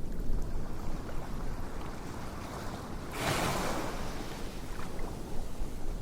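Ocean-wave ambience: a steady low rumble of surf, with one wave washing in about three seconds in and fading away.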